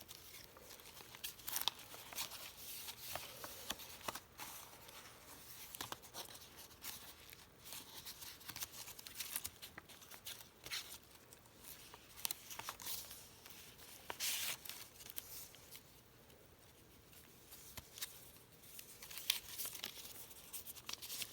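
Paper pages and scraps of a handmade junk journal rustling and crinkling as they are handled and flipped through, in irregular crackles, with a quieter lull a little past the middle.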